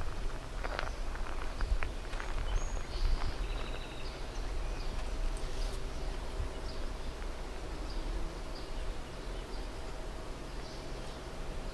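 Outdoor ambience with a steady low rumble. A few short rustles or crunches come in the first two seconds, and brief high bird chirps around three seconds in.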